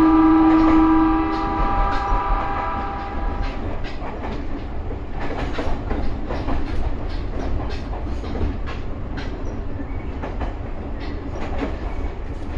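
Ryutetsu 5000 series electric train sounding its horn, one steady held tone that dies away about three seconds in. After that the train runs on with a steady rumble and the clicking of its wheels over the rail joints.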